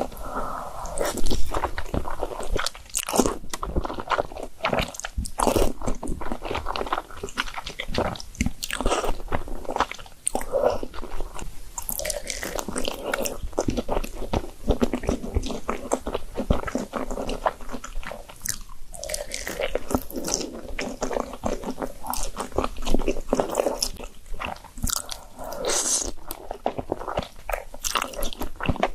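Person eating noodles and dumplings close to the microphone: continuous biting and chewing with many quick, wet smacking clicks.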